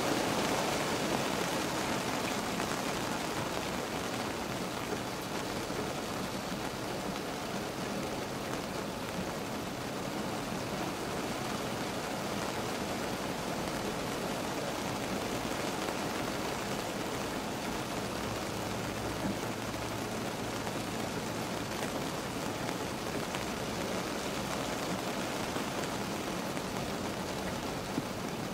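Steady rain falling on a car's roof and windows, heard from inside the cabin as an even, unbroken patter.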